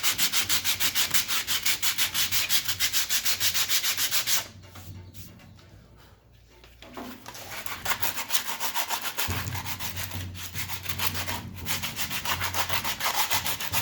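Sandpaper rubbed by hand over the metal of a belt grinder's frame in fast back-and-forth strokes to take off rust. The strokes pause for a few seconds partway through, then start again.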